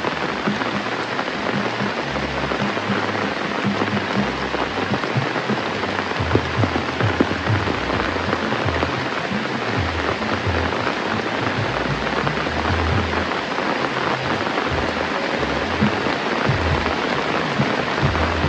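Steady rain falling: a dense, even hiss thick with small drop impacts, with irregular low rumbles underneath.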